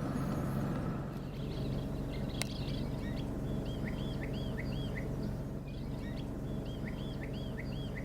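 A songbird singing two phrases of quick, repeated arching notes, the first about three and a half seconds in and the second near the end, over a steady low hum. A single sharp click comes about two and a half seconds in.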